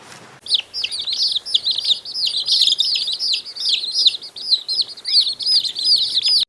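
Small birds chirping: a rapid, unbroken stream of short, high chirps, many overlapping, as from several birds at once. It starts about half a second in and cuts off abruptly.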